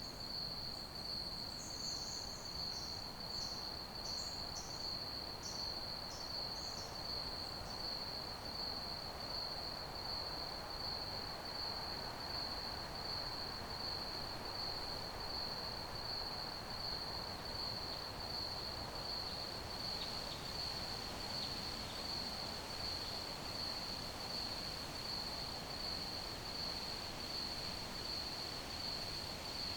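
Crickets chirping in a steady, fast-pulsing high trill, over a soft even hiss. During the first few seconds a series of short, higher chirps sounds alongside the trill.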